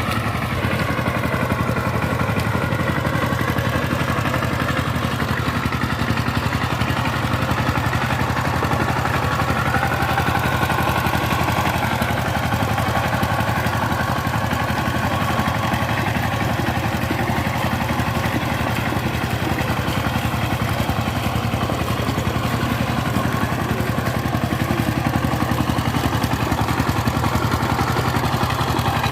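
Power tiller's diesel engine running steadily at speed with a rapid, even beat.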